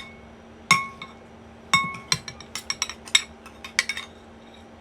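A utensil clinking against a dish: three ringing clinks in the first two seconds, then a quick run of lighter clicks and taps.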